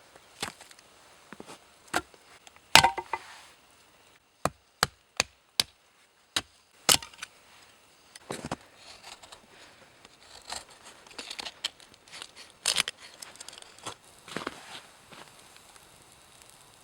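Chopping on wood: scattered sharp knocks, with a quick run of five evenly spaced strikes a few seconds in, between light rustling and handling.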